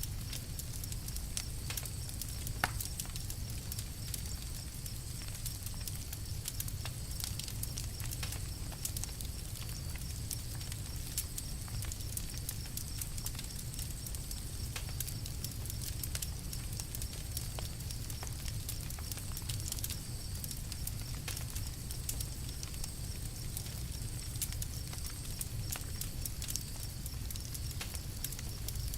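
Campfire crackling: a constant stream of short, irregular pops and snaps over a steady low rumble.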